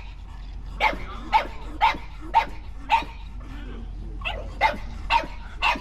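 A dog barking repeatedly, about two barks a second: five barks, a pause of just over a second, then four more.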